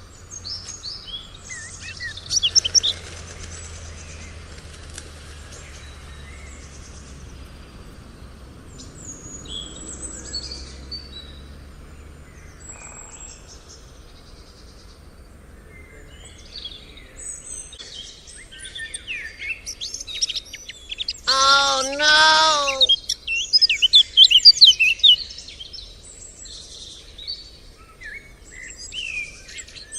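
Birds chirping and calling in short high bursts, with one longer wavering cry a little past two-thirds of the way through.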